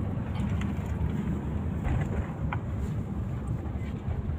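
Steady low rumbling noise, with a few faint ticks.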